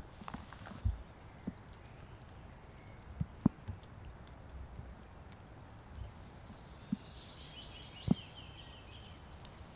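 A songbird sings one descending trill of quick high notes, falling in pitch over about two and a half seconds near the end. Scattered soft knocks and thumps come and go throughout.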